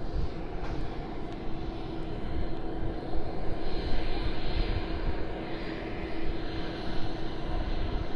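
Aircraft engine noise: a steady drone with one faint held tone, swelling slightly in its upper range around the middle.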